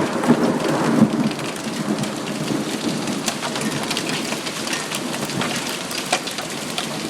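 Hailstones pelting down in a heavy storm: a dense clatter of many small impacts over a steady rushing noise, a little louder in the first second.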